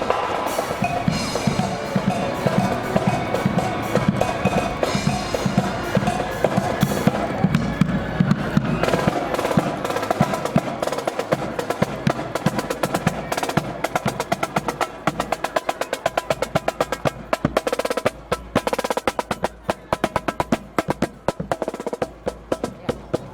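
Marching band drum line playing a cadence: snare drums in rapid, even strokes over bass drum, growing quieter in the second half. A steady low rumble of wind on the microphone lies under it.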